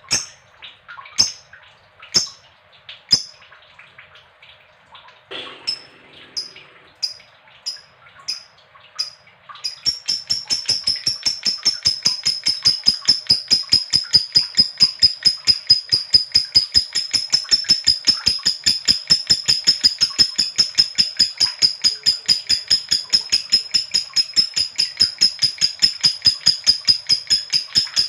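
Lovebird calling: single sharp chirps about a second apart, then, about ten seconds in, a long unbroken run of rapid, evenly repeated high chirps, the long 'ngekek' chatter.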